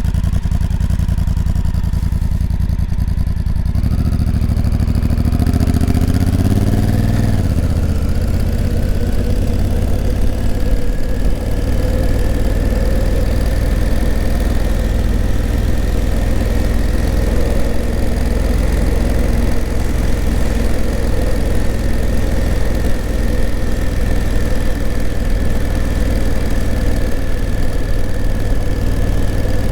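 Honda CRF1000L Africa Twin's 998 cc parallel-twin engine running at low revs, then accelerating about four seconds in, its pitch climbing for a few seconds before it settles into a steady pull. A faint high whine runs over it in the later part.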